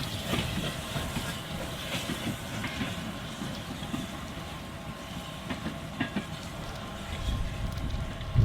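A train running on the line, a steady rumble with a few scattered clicks.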